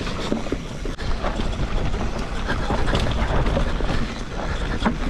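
Mountain bike rolling down a steep, dry, loose dirt trail with its motor off: continuous tyre noise on the dirt with the bike rattling and knocking over bumps, and a low wind rumble on the microphone.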